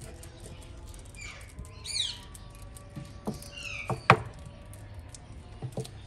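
Birds squawking in the background with short downward-sweeping calls, twice, and a few sharp knocks from a wooden nest box being handled, the loudest about four seconds in.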